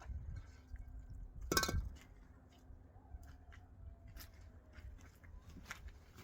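A single sharp clink with a brief ring about a second and a half in, like a hard object such as a glass or dish being knocked, followed by a few faint clicks, over a low rumble.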